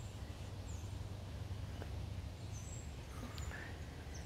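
Outdoor garden ambience: a few short, faint high-pitched bird chirps, mostly in the second half, over a steady low rumble.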